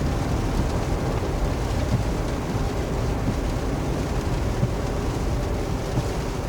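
Steady rain on a moving truck, mixed with a low engine and road rumble.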